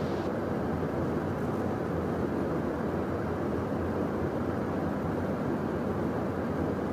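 Steady cockpit noise of a Beechcraft Premier 1A business jet in the climb after takeoff: an even, dull rush of airflow and engine noise with no distinct tones.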